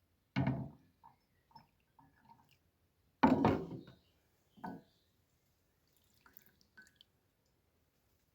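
Liquid splashing into a cup in three short pours, the second the loudest, with faint small clinks and ticks in between.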